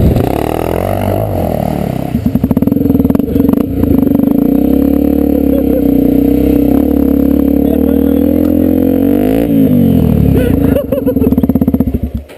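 Honda Tornado 250's single-cylinder four-stroke engine running under way at a steady pitch, with a brief dip and rise in pitch about nine and a half seconds in, then cutting off sharply near the end.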